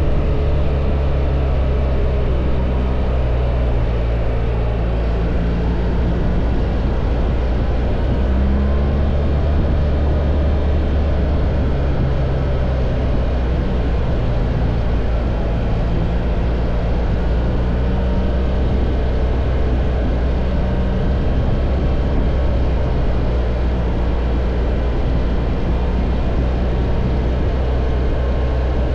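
BMW R1300 GS boxer-twin engine running steadily under way, over a constant rush of road and wind noise, with a slight rise in pitch about eight seconds in.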